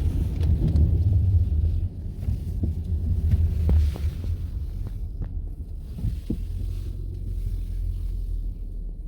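Low, buffeting rumble of wind on the microphone outdoors, heaviest for the first few seconds and then easing, with a few faint short squeaks above it.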